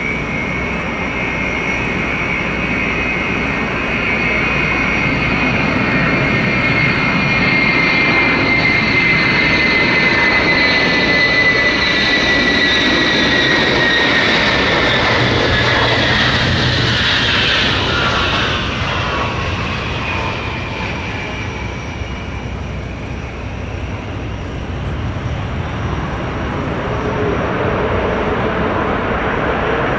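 Jet airliner passing by: a steady engine rumble with a high whine that slides down in pitch as it goes past, loudest about halfway through and then easing off.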